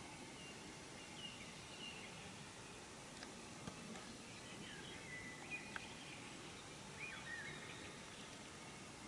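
Faint birdsong outdoors: scattered short chirps and whistled notes, some sliding in pitch, over a steady low background hiss.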